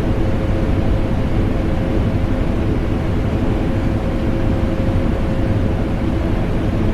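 Vacuum cleaner motor running steadily together with an air conditioner: a constant low rumble and rush of air with a steady mid-pitched whine through it.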